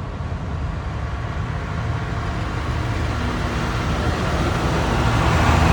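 Tractor engine running steadily with a low rumble, growing louder toward the end.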